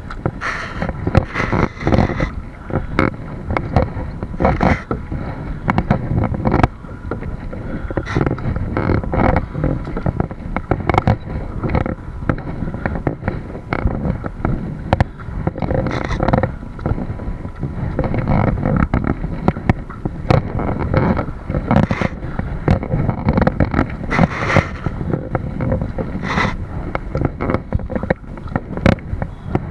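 Kayak on open water: steady wind rumble on the microphone, with irregular splashes and knocks, about one or two a second, from paddling and water against the hull.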